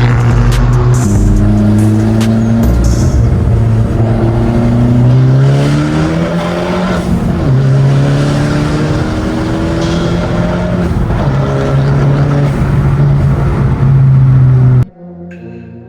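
Abarth's engine accelerating hard, its note rising, dropping back and rising again several times as it shifts up through the gears. It cuts off suddenly near the end.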